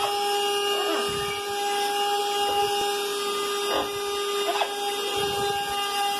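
Vacuum cleaner running with a steady motor whine, with a pet parrot calling briefly a few times over it.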